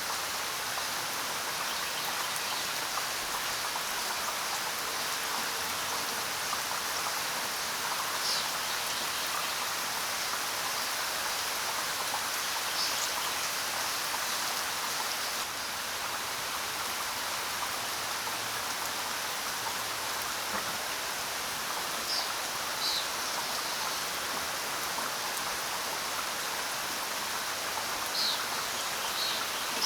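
Steady rain falling, with a few short, high bird chirps scattered through it.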